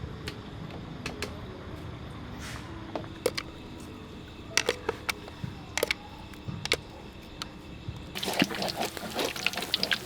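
Scattered light clicks and knocks, then about eight seconds in water starts pouring and splashing.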